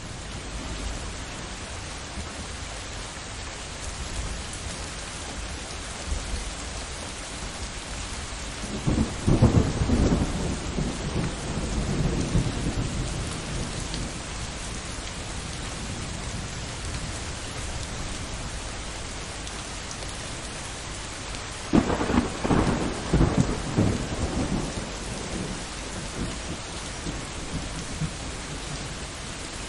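Steady rain falling through a thunderstorm, with two peals of rolling thunder: one building about a third of the way in and rumbling for several seconds, and a second that breaks suddenly about three-quarters of the way through and rumbles on for a few seconds.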